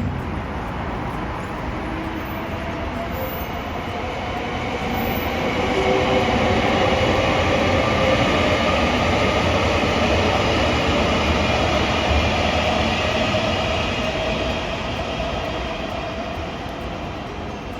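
Train running past on the rails, its rumble building to a peak near the middle and fading toward the end, with faint high whining tones over the noise.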